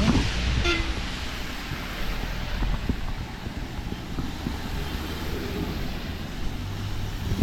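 Steady rush of heavy rain and wind with vehicle traffic on a wet road.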